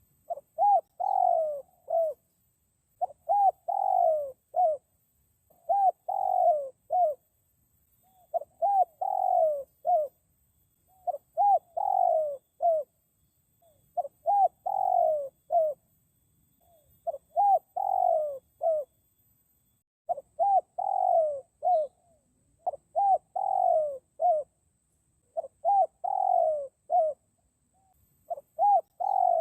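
Spotted dove cooing: a short phrase of four or five coos, the middle one longest, repeated about every three seconds.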